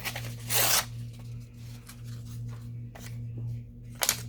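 Sheets of craft paper being handled and rustled: a loud rustle about half a second in and a short sharp crackle near the end, over a steady low hum.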